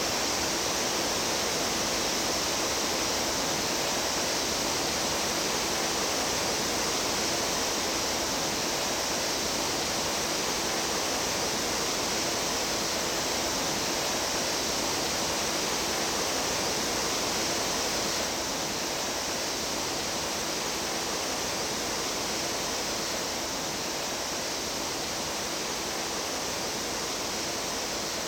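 Running water of a mountain stream, a steady, even rush that drops slightly in level about two-thirds of the way through.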